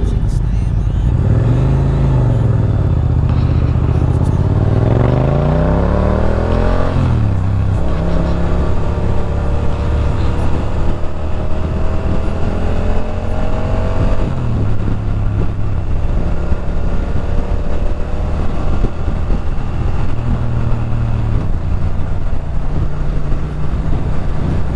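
Motorcycle engine pulling away and accelerating, its revs climbing and dropping at two gear changes in the first seven seconds, then holding steady with wind rush. About halfway through the revs fall off as it slows.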